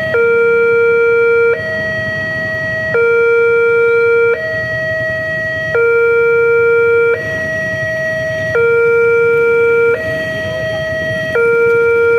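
Indonesian railway level-crossing warning siren sounding a steady two-tone hi-lo alarm, switching between a lower and a higher tone about every second and a half while the crossing barrier is down.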